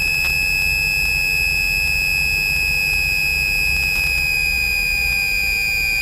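Steady high-pitched whine over the low drone of the Piper PA-34 Seneca's twin piston engines in the cockpit, the whine sagging slightly in pitch near the end.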